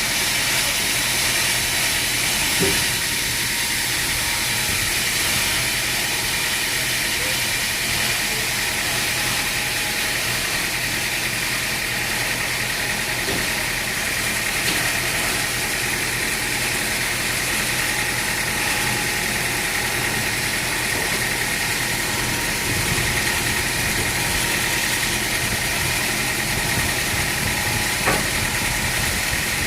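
Sawmill machinery running steadily, with a constant high whine over the machine noise. A brief knock sounds near the start and another near the end.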